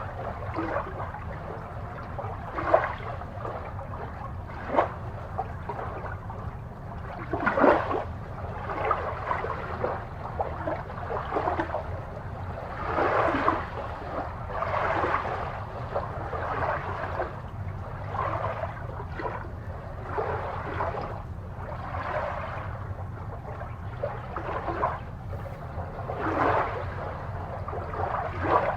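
Aquarium water bubbling and gurgling in irregular splashes over a steady low hum.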